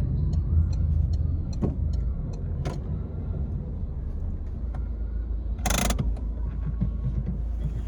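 Peugeot 301 car engine running steadily on the move, with light regular ticking in the first few seconds and one short, loud thump or rattle about six seconds in.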